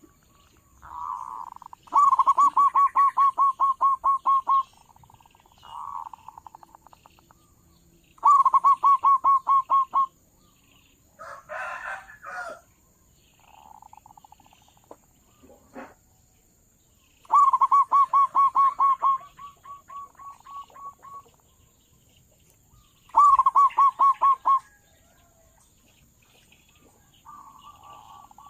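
Zebra dove (perkutut) calling: four loud runs of fast, evenly repeated cooing notes, each lasting about two seconds, with softer, shorter coos in between.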